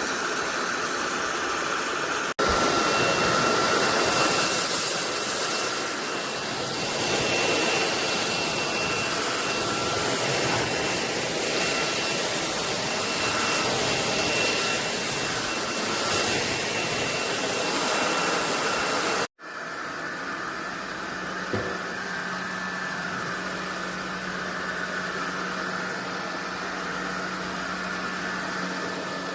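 SunSare X11 cordless stick vacuum running, a steady rush of motor and airflow with a thin high whine over it. The sound cuts abruptly twice, and after the second cut it runs quieter with a low hum.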